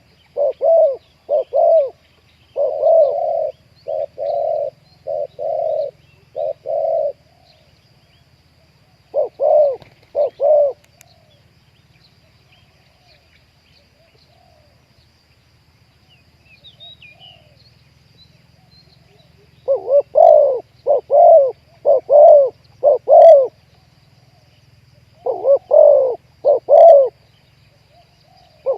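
Spotted dove cooing in phrases of short, low coos, with a long pause in the middle; faint chirps of small birds in the gaps.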